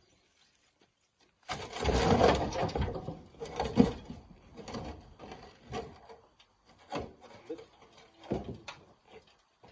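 Rocks being handled and loaded: a loud scraping, grinding rush starts about a second and a half in, followed by a run of separate knocks and clunks of stone.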